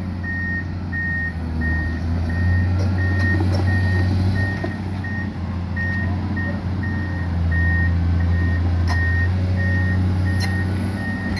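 Excavator's diesel engine running steadily under load, with its warning alarm beeping evenly about three times every two seconds and a couple of sharp clicks near the end.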